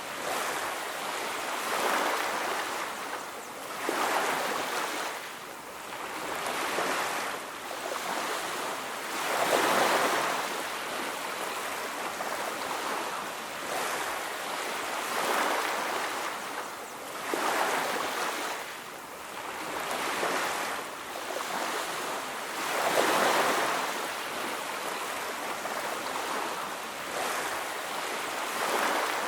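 Sea surf on a beach: waves breaking and washing in as a continuous hiss that swells and ebbs every few seconds.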